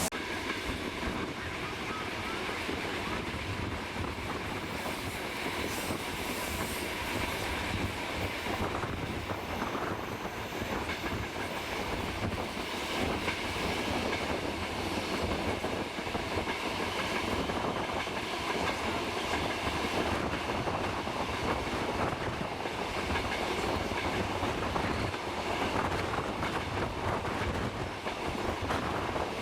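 Train running along the track in a steady rumble, with wheels clattering over the rails.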